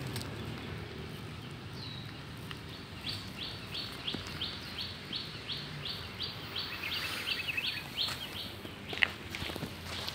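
A bird calling: a run of short, high notes repeated evenly, about three a second, for several seconds. A single sharp click sounds near the end.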